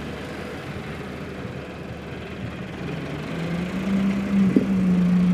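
Tractor engine running steadily, then speeding up about three seconds in, its hum rising in pitch and getting louder before holding steady. A single short knock comes near the end.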